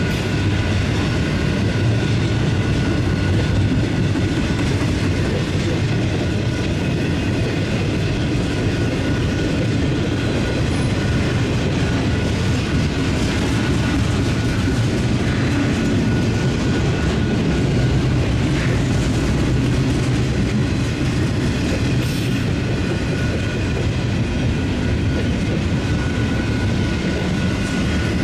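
Freight train cars rolling steadily past on the rails, a continuous even sound of steel wheels on track.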